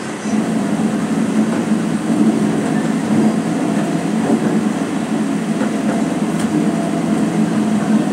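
Electric multiple unit (EMU) suburban local train running at speed, heard from inside the coach: a steady, loud rumble.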